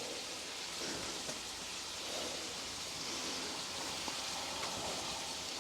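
Water running and splashing steadily from an open washing-machine tap left on, flooding the house; a steady rushing hiss, like a river running through a house.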